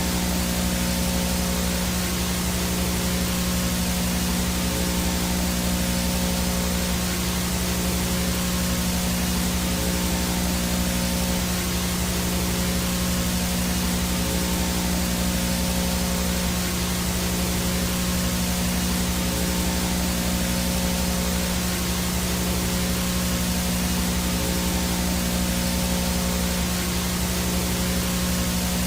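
Analog VHS no-signal static: a steady hiss with a low hum and a faint high whine running through it, unchanging throughout.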